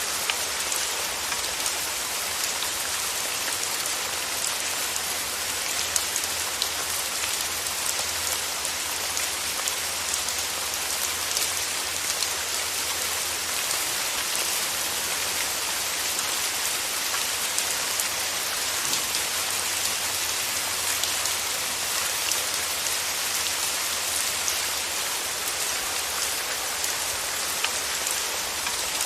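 Steady rain falling on a surface, a continuous hiss dotted with many small drop impacts.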